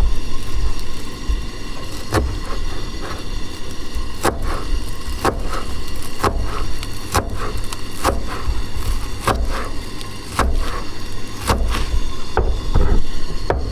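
Knife chopping vegetables on a cutting board, with single sharp knocks about once a second.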